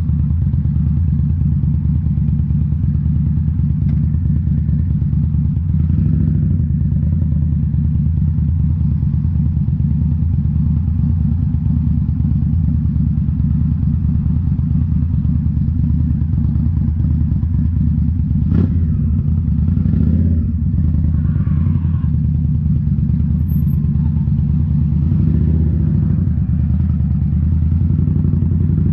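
A 2018 Indian Scout Bobber's V-twin runs at a steady engine speed through Rinehart slip-on mufflers, a deep, even exhaust note. A single sharp knock comes about two-thirds of the way through.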